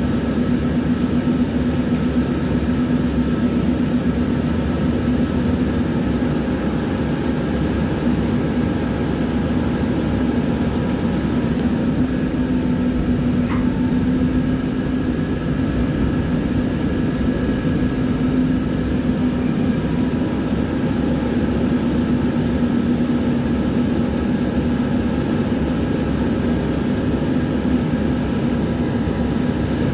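Tram in motion: a steady low rumble with a strong hum and several faint, steady higher whines, plus a single short click about halfway through.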